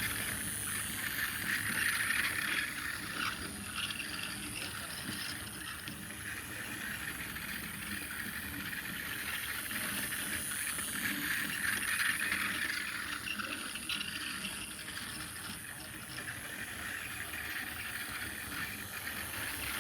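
Two small toy trains running on their track, with a steady whir of small motors and wheels on the rails. The sound grows louder about every ten seconds as a train passes close by.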